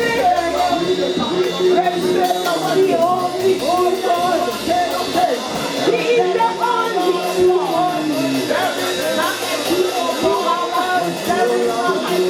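Gospel worship music: a live band with guitar and drums accompanying singing voices in a continuous song.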